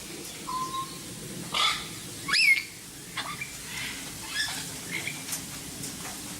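Several birds chirping and whistling in short, separate calls. The loudest is a quick whistle that sweeps up and back down about two and a half seconds in.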